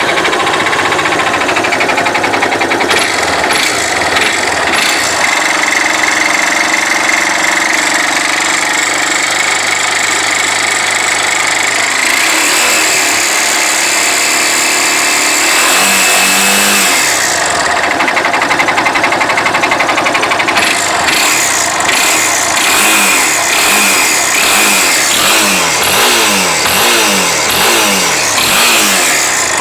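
Yamaha Fazer 250 motorcycle's single-cylinder engine running with the strange mechanical noise that its owner cannot identify. In the last third the engine is revved briefly over and over, about once a second.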